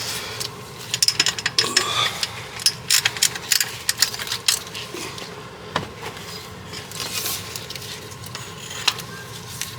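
Serpentine drive belt being worked off the pulleys of a 5.7L Hemi V8 with the tensioner released: rubbing and scraping, with many scattered sharp clicks and knocks of metal parts and tools.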